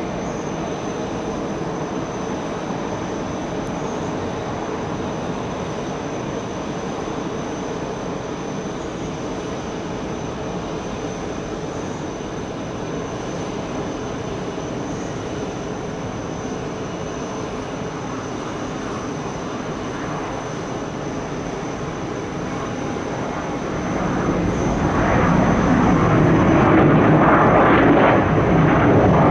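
Jet airliner engines running, a steady noise that swells louder about 24 seconds in as the aircraft comes closer.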